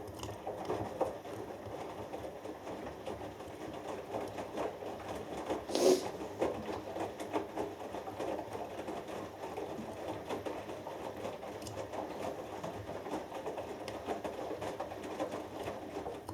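Hoover Dynamic Next washing machine drum turning the wet 6 kg cotton load during the main wash: a steady run of sloshing water and tumbling clothes that starts and stops abruptly, with one louder thud about six seconds in.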